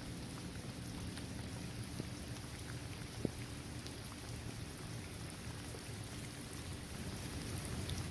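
Steady rain falling on a hard court, trees and grass, with scattered individual drops ticking through the hiss and one sharper drop about three seconds in.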